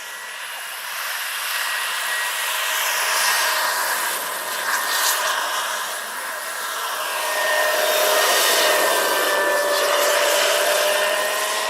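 Radio-controlled model airplane in flight: a steady motor whine under a broad rushing hiss, growing louder about halfway through as it comes nearer, with a slight drift in pitch.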